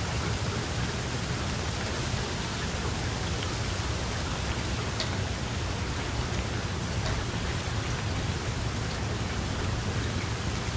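Steady heavy rain: an even dense hiss with scattered drop ticks and a low rumble underneath.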